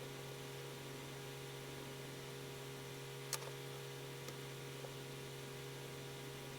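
Steady electrical hum with a background hiss, broken by one sharp click about halfway through and two fainter ticks a second or so later.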